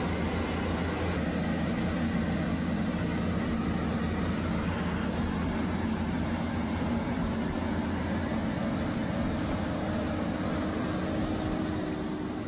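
Heavy truck engine running steadily under load, with a low steady drone and road noise.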